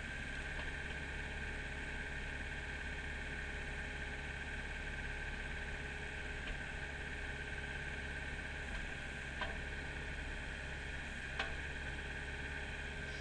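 Kubota mini excavator's diesel engine running steadily, with two short clicks near the end.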